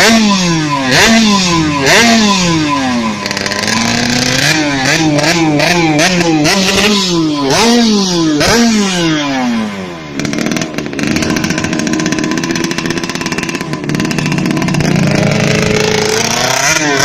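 Yamaha F1ZR two-stroke underbone engine, tuned and bored to about 116 cc, being free-revved in quick repeated throttle blips, the pitch jumping up and falling back each time. About ten seconds in it settles into a steadier, more even run before climbing again near the end.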